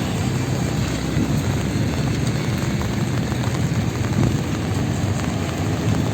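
Steady rain falling on a city street, with the low rumble of road traffic underneath.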